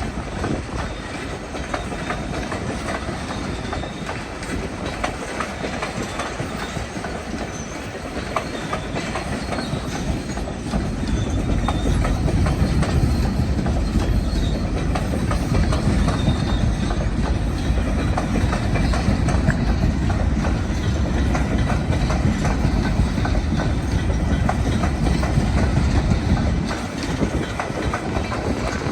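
Coal train cars rolling past at speed, a steady rumble with wheels clicking over rail joints. It grows louder about a third of the way in and eases slightly near the end.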